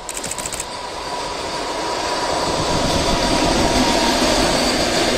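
EP2K electric locomotive hauling a passenger train past at speed: wheels on the rails and a steady whine. It grows louder over the first few seconds as the train approaches, then holds loud as the locomotive goes by.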